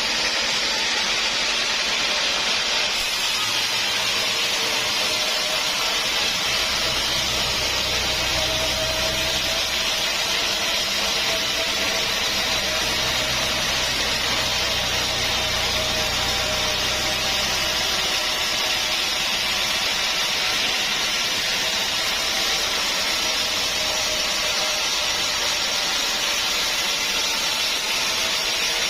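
Sawmill running as its saw cuts through acacia wood: a steady hissing sawing noise with a faint hum, and a deeper rumble that joins a few seconds in and drops away just past the middle.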